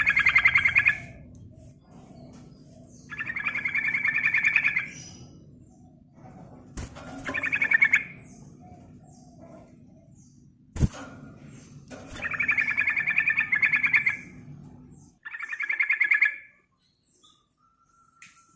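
Yellow-vented bulbul giving rapid chattering, trilling calls in five bursts of one to two seconds each, over a low hum that stops shortly before the end. A couple of sharp clicks fall between the bursts.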